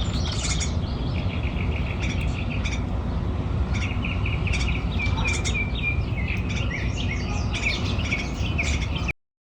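Small birds chirping: many short, high calls and quick runs of repeated notes over a steady low background rumble. The sound cuts off suddenly about nine seconds in.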